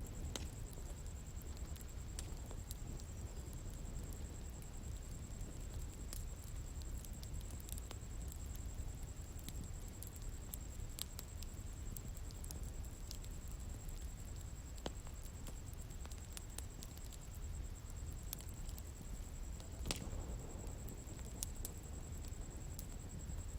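Bonfire burning outdoors: scattered sharp crackles and pops from the burning wood over a low steady rumble of flames, with a steady high-pitched tone behind it.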